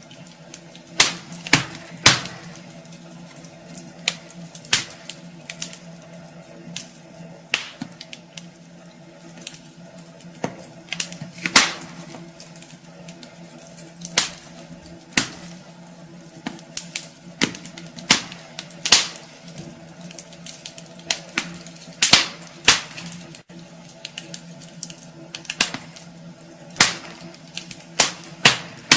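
Wood fire burning in a fireplace, the logs crackling with irregular sharp pops, several louder snaps among many small ticks, over a steady low hum.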